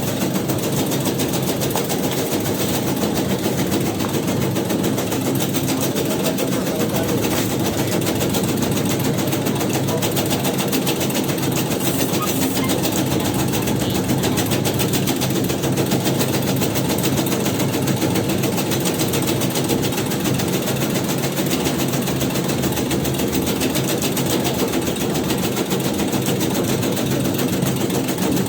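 Tobacco shredding machine running steadily, a dense mechanical chatter with no pauses.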